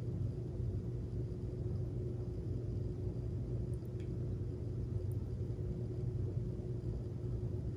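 Steady low background hum of room tone, with a faint steady higher tone over it.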